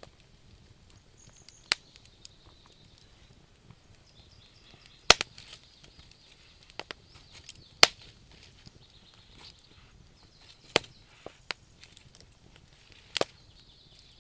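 Wood fire crackling: sharp, irregular pops a few seconds apart, the loudest about five and eight seconds in, over a faint hiss.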